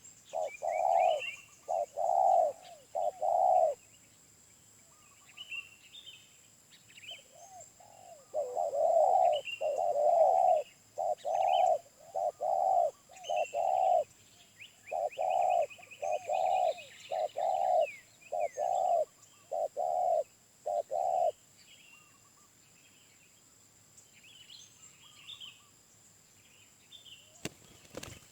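Wild spotted dove cooing in runs of short, low, evenly spaced coos: a brief run at the start, then a longer run from about 8 to 21 seconds in. Small birds chirp high and briefly throughout.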